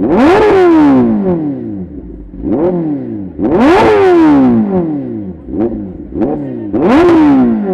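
A vehicle engine revved hard while standing, in repeated blips. Three big revs come about three seconds apart with smaller blips between them, and each time the pitch rises sharply and falls back more slowly.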